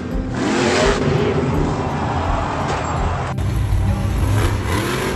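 Monster truck engine running loudly.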